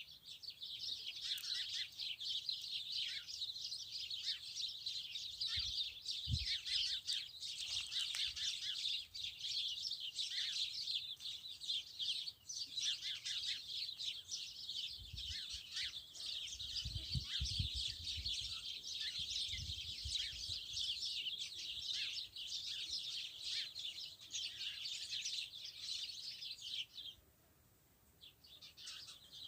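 A dense chorus of many small birds chirping and twittering together, overlapping high calls without a pause, that breaks off for a couple of seconds near the end. A few soft low rumbles sit underneath in the middle.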